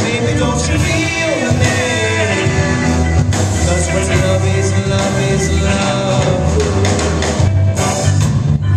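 Live rock band playing loud and steady, with drums, bass and a wavering lead line in the upper middle.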